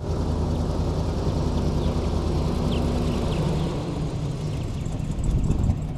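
Vehicle engine running steadily, with a shift in its low tone about three and a half seconds in.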